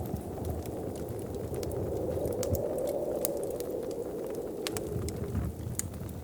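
Wood fire crackling in a fireplace with irregular sharp pops, over a low rushing wind that swells up in the middle and then eases off.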